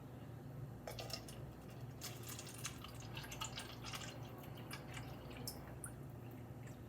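Water dripping and trickling faintly into a cup, in scattered small drops.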